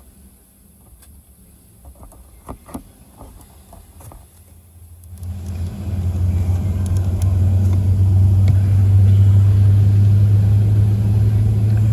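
Airliner cabin noise as heard from a passenger seat: after a few light knocks, a steady low engine hum swells up about five seconds in and holds loud, typical of the aircraft's engines spooling up to taxi thrust.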